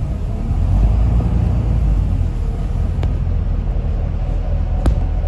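Steady low engine and road rumble heard from inside a moving bus, with a sharp click near the end.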